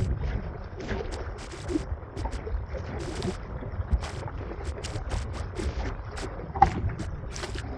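Wind buffeting the microphone with a low rumble, over choppy water splashing and slapping irregularly against the hull of an Old Town Vapor 10 kayak as it is paddled.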